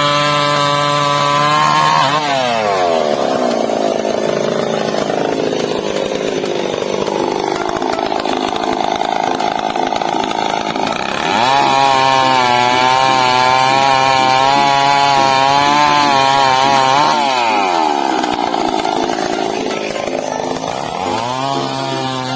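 Chainsaw revving at full throttle, dropping back toward idle about two seconds in, revving up again around eleven seconds, dropping again around seventeen, and revving up once more near the end.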